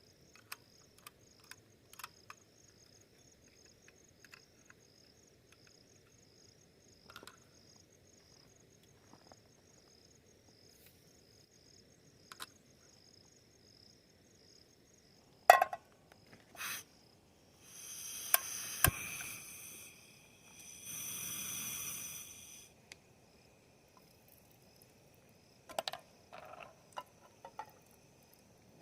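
Night insects chirping in a steady, evenly pulsed high trill, with scattered small clicks and knocks. About halfway through a sharp knock, the loudest sound, is followed by two rasping noises of about two seconds each.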